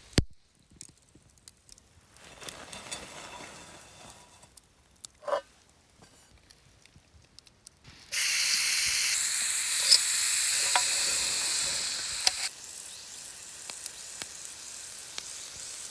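Food sizzling in a hot iron skillet. It is faint with scattered light clicks in the first half, then turns loud and even for about four seconds from about halfway, and drops back to a softer sizzle.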